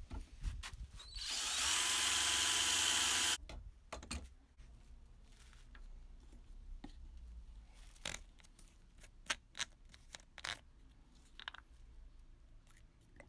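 A power drill runs for about two seconds at a steady speed, starting about a second in and cutting off abruptly. Scattered light clicks and knocks of tools and parts being handled follow.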